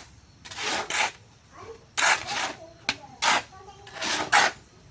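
Repeated rough scraping strokes, about one a second, each lasting under half a second.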